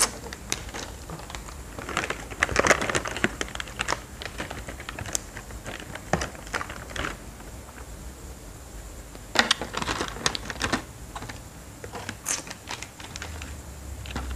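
Crispy fried seaweed snack being bitten and chewed: a run of irregular, crunchy crackles, busiest about two to four seconds in and again around ten seconds.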